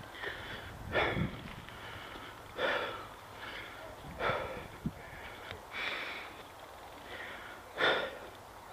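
A person breathing hard close to the microphone, with a loud breath about every one and a half seconds.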